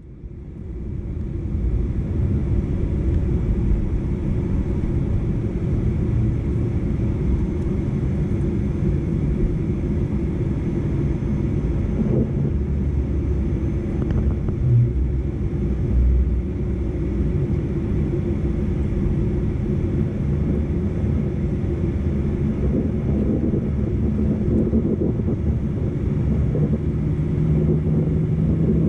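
Cabin noise inside a Boeing 737-900ER during departure: a steady low rumble from the CFM56 engines and airframe that builds over the first couple of seconds. A few dull thumps come near the middle.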